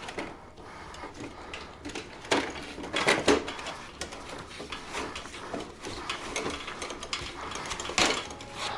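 Irregular clicks, taps and clatter of hand work with tools and parts, with a few louder knocks about two and a half, three and eight seconds in.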